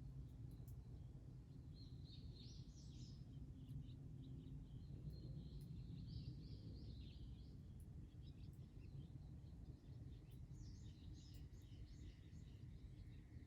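Faint bird chirping in three short bouts over a low, steady background rumble. A thin steady high tone starts near the end.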